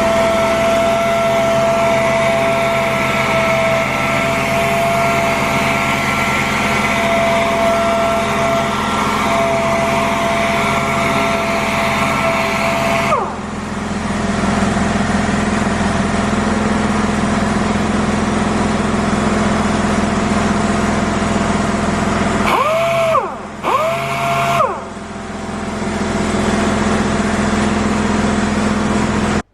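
Orbital sander running steadily while sanding 2K high build primer with 600-grit paper. It has a steady whine that drops out about halfway through. Later its pitch rises and falls twice in quick succession.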